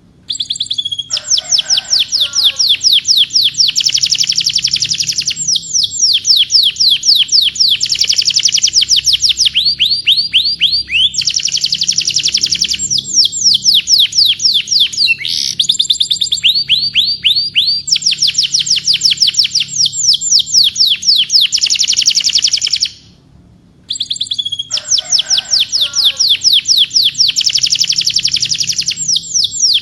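Domestic canary singing a long rolling song: fast trills of the same note repeated many times a second, switching to a new trill every few seconds, with one short break about three-quarters of the way through.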